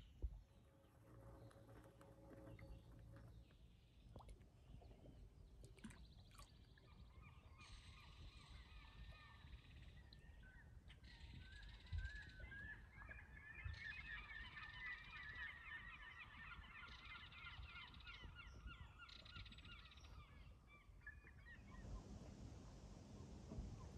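Faint bird calls over quiet outdoor ambience: a long run of quick, repeated calls begins about halfway through and goes on for several seconds.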